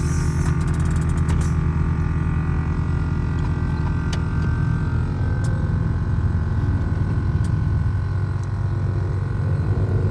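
Scion FR-S's flat-four engine running steadily as the car drives, with a short run of rapid clicks about a second in.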